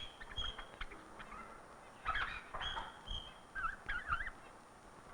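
Black-billed magpie calling: a scattered series of short high whistled notes and squeaky chattering calls, with a wavering run of chatter a little past the middle.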